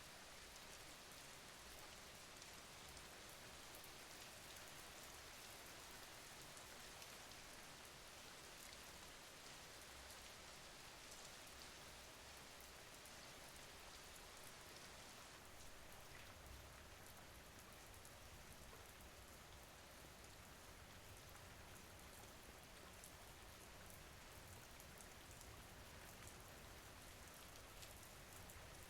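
Steady rain falling: a soft, even hiss with a fine patter of drops.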